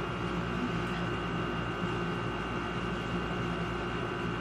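Steady room noise: an even hum and hiss with a few faint constant tones, and no distinct events.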